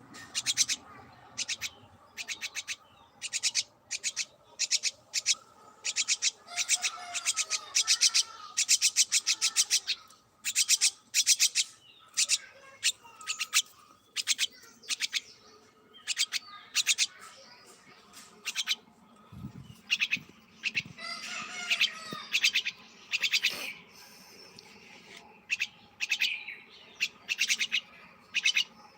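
Small pet birds chirping in short, rapid, high-pitched trills that come every second or so, with a brief denser stretch of warbling a little past the middle. A soft low thump sounds partway through.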